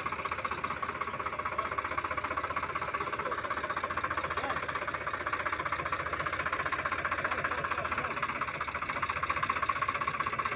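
Swaraj 855 tractor's three-cylinder diesel engine running steadily with a rapid, even diesel knock while hauling a load of wood.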